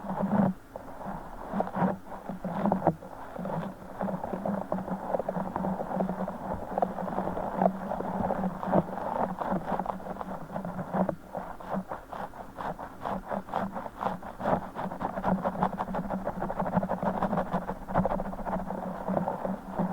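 Gel water beads spilling from a broken Orbeez squishy ball being squished and handled, giving a dense, rapid run of wet crackling and squelching clicks.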